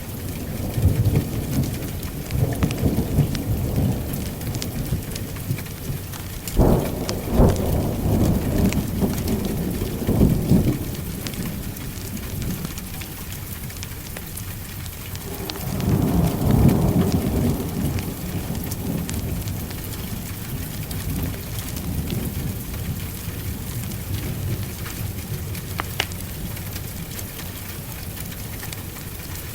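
Heavy rain falling steadily with rolling thunder: a sharp crack about a quarter of the way in, then rumbles, and a longer swelling rumble a little past the middle.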